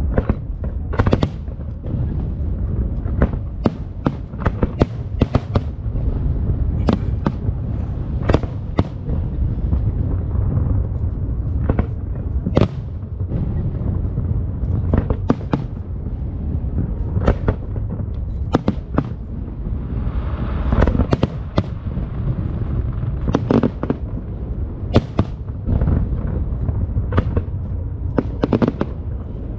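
Aerial fireworks display: a continuous low rumble of booming shells, with many sharp bangs and cracks going off irregularly, often several a second.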